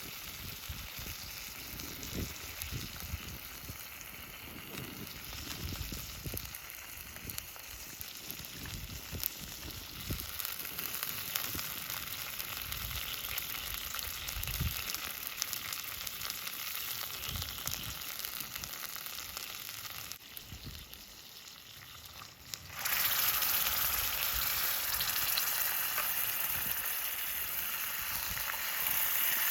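Food sizzling in a frying pan over a campfire, a steady hiss with scattered low crackles. The sizzle dips about twenty seconds in, then suddenly turns louder and brighter a couple of seconds later.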